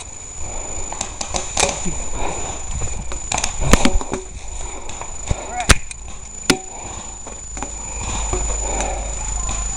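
A few sharp cracks of airsoft gunfire, a quick cluster about three and a half seconds in and single shots near the middle, over handling noise and faint distant voices. A steady high-pitched whine runs underneath.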